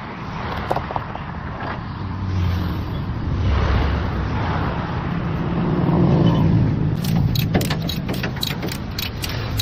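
Heavy vehicle's diesel engine running, getting louder toward the middle, with a run of sharp clicks or rattles over the last few seconds.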